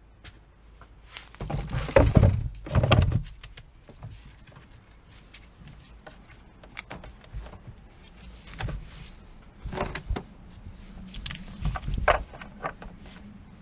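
Irregular knocks, clicks and clunks of tools and car parts being handled during clutch work, with two louder clunks about two and three seconds in.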